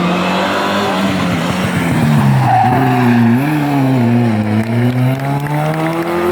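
Historic rally car engine under hard driving, the revs dropping about two and a half seconds in, then climbing, easing and climbing again, with a brief tyre squeal at the drop.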